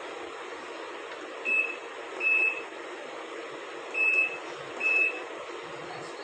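Midea MWMTLO62M31 washing machine's control panel beeping: four short, high beeps in two pairs as buttons are pressed to set the program.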